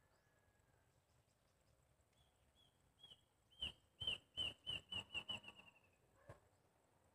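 A bird calling: a series of short, falling chirps that starts about two seconds in, speeds up and drifts slightly lower, and stops about a second before the end.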